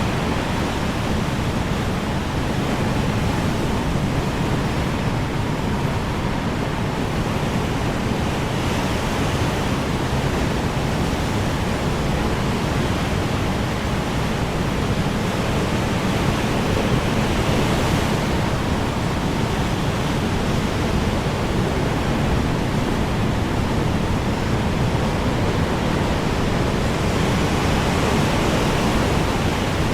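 Strong wind blowing steadily, a continuous rushing noise with only slight swells and no gusts standing out.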